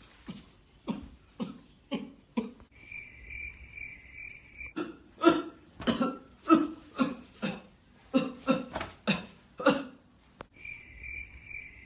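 A person coughing over and over in rapid runs of short, harsh coughs. A steady high-pitched tone fills the two pauses between the runs.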